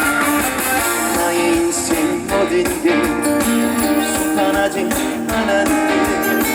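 Live band playing the instrumental interlude of a trot song, with electric guitar prominent over a steady beat.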